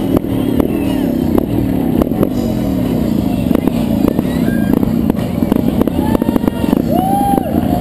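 Trials motorcycle engine running as the bike rolls, its revs blipped up and falling away about twice a second for the first few seconds, then running more evenly.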